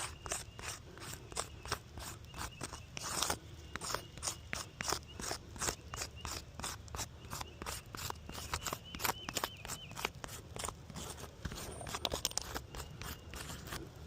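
Gritty crunching and scraping of asphalt roof shingles, a few irregular crunches a second.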